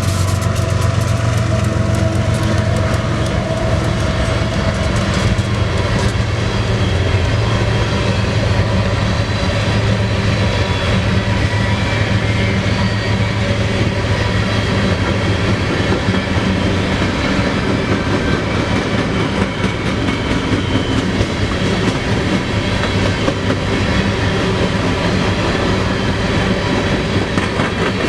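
Loaded grain train passing close by: the low drone of the GE ES44AC diesel locomotive fades over the first ten seconds or so, while the cars roll past with a steady rumble and sharp clicks of wheels over rail joints.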